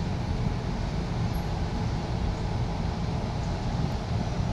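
Steady low rumble of a Sydney Trains Tangara T set electric train standing at the platform with its doors open.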